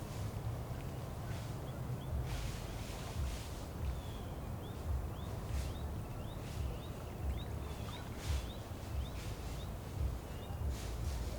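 A bird calling over and over, a short rising chirp about twice a second, over a steady low rumble and occasional rustles.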